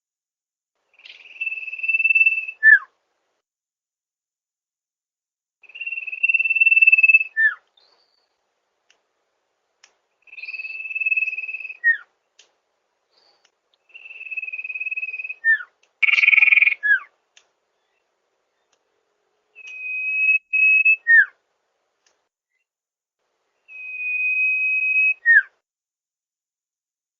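Sirtu bird calling: a held, steady whistle followed by a short falling note, repeated six times about every four seconds. One harsher, noisier call comes about halfway through.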